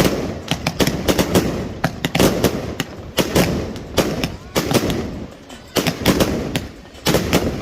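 Fireworks going off in rapid, irregular bangs and crackles, several a second.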